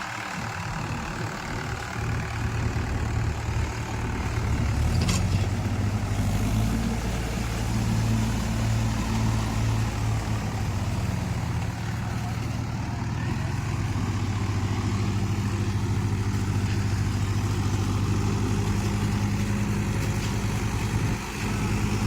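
Tractor diesel engine running steadily; its note strengthens a few seconds in and then holds even, with a single sharp click about five seconds in.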